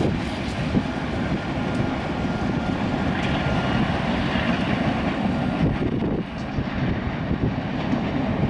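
BNSF diesel-electric locomotives at the head of a freight train approaching, with a steady engine drone and rumble.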